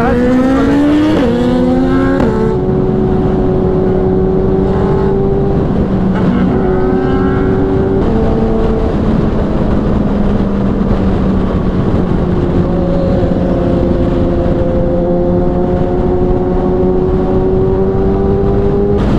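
Kawasaki inline-four sport bike engine running hard at highway speed over wind rush. Its pitch climbs and steps down through quick gear changes in the first few seconds and again about eight seconds in, then holds steady and rises slowly.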